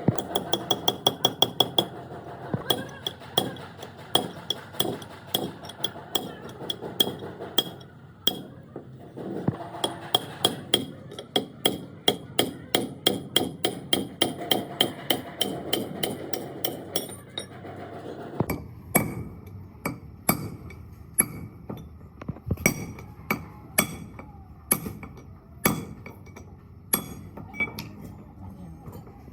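Repeated hammer blows on metal, each with a ringing clink: fast even runs of several strikes a second, then slower, sparser blows for the last third.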